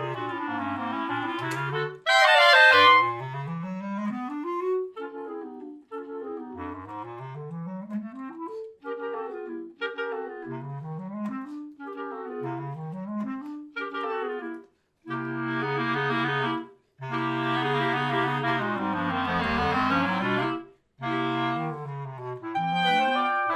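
Clarinet quartet playing: repeated rising runs climbing from the low register, answered by higher figures and broken by short pauses, with a loud high flourish about two seconds in and sustained full chords in the second half.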